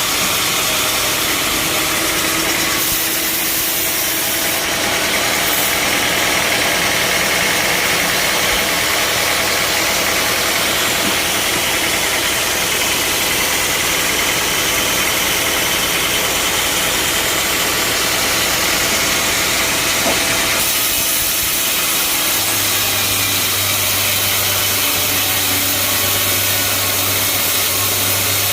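Bandsaw sawmill running steadily: a loud engine hum under a hiss from the blade and machinery, changing in texture about 3 seconds and about 21 seconds in.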